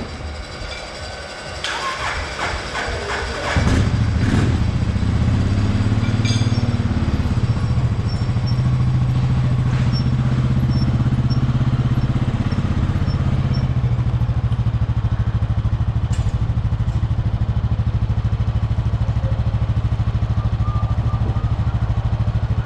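Supercharged Yamaha SVHO four-stroke personal-watercraft engine in a race jet ski hull. It starts about four seconds in, then runs at a steady idle.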